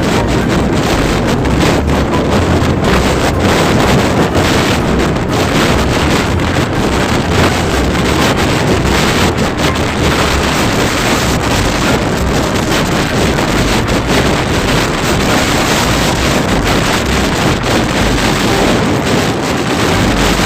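Steady, loud wind rushing over the microphone of a moving motorcycle, with a low rumble of engine and road noise underneath.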